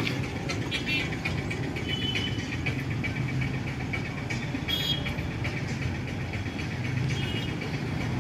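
Steady rumble of road traffic, with a few brief high chirps over it.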